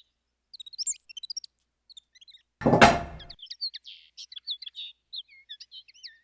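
Small birds chirping and twittering in quick, short high notes, with one brief loud knock-like burst about two and a half seconds in.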